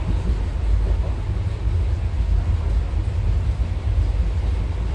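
Steady low rumble of a moving train heard from inside a passenger carriage.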